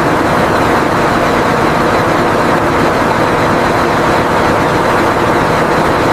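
A large ship's engine running steadily, a loud, even noise with a low hum beneath it.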